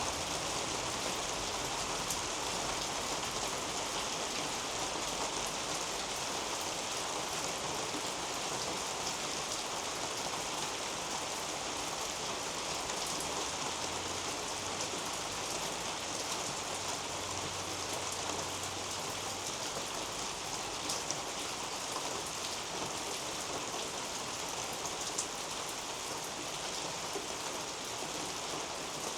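Steady rain falling on a roof and on garden foliage, an even hiss of drops with a few sharper single-drop taps in the second half.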